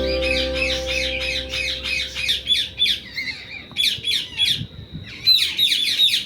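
Indian ringneck parrot calling in rapid repeated short squawks and chirps, several a second, with a brief pause about halfway through. Background music with held tones fades out over the first couple of seconds.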